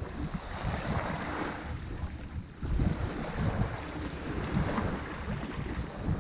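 Ocean surf breaking and washing up the shore in surges, a hissing rush over a continuous low rumble.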